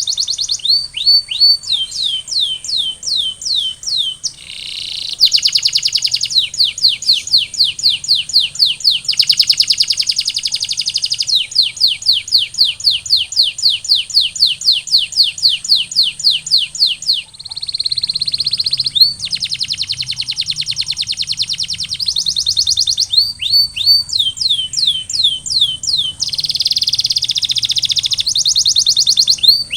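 Canary singing a continuous song of fast trills, each a run of the same note repeated many times a second, switching to a new trill every few seconds, with a few downward-sweeping notes in between.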